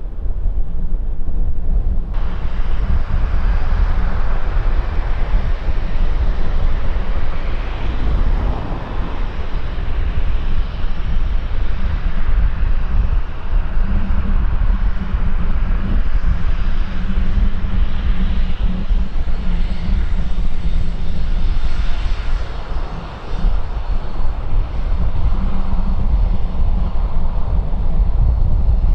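Airliner engines running loud and steady with a deep rumble underneath, as an aircraft moves on the runway. A brighter, hissing engine sound comes in abruptly about two seconds in and holds.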